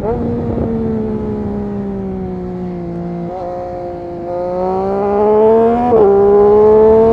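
Triumph Street Triple RS 765's three-cylinder engine breathing through an SC-Project S1 exhaust, running at fairly steady high revs. The note sags slightly, then climbs again from about four seconds in, with brief jumps in pitch around three and six seconds in.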